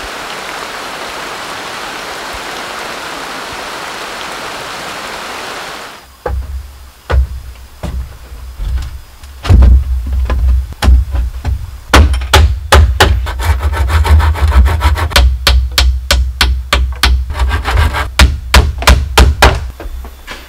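Steady hiss of heavy rain for about six seconds. Then, suddenly, a run of sharp wooden knocks and chops on bamboo, some with deep thuds, coming irregularly and at times several a second.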